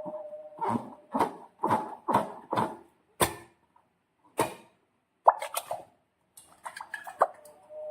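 Slime squishing, making a run of short wet plops about twice a second, then a few sharper clicks and crackles near the end.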